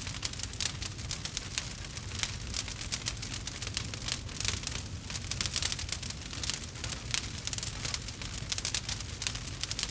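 Campfire crackling, with many quick, irregular sharp snaps and pops over a low steady rumble of the burning wood.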